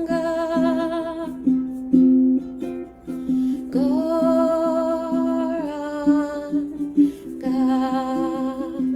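Devotional kirtan chanting: a single voice singing long, held, wavering notes of the mantra over a steadily strummed stringed instrument.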